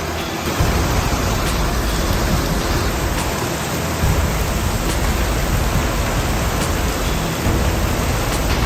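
Heavy rain pouring down in a steady hiss during a strong windstorm, with a low rumble of wind underneath.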